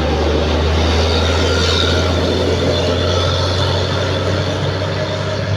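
A heavy truck's engine running with a steady low drone.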